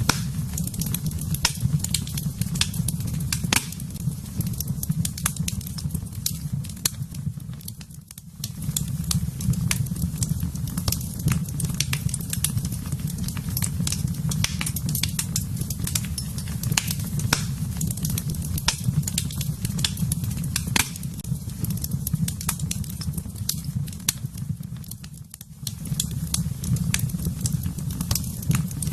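Wood fire burning in a fireplace: a steady low rumble of flame with frequent sharp crackles and pops of burning wood. The low rumble briefly dips twice, about eight seconds in and again near the end.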